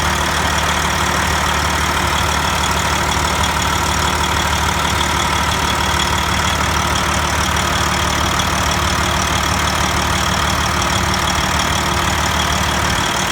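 Detroit Diesel 14-litre diesel engine idling steadily, with a metal-to-metal clicking from the exhaust that the owner cannot trace; the shop calls it normal, but he does not believe it is.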